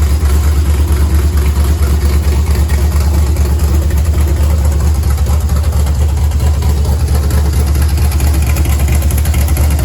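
358 cubic-inch small-block V8 in a 1961 Ford Falcon gasser, running uncorked on open headers with the side pipes removed, idling steadily with a loud, rapidly pulsing exhaust note.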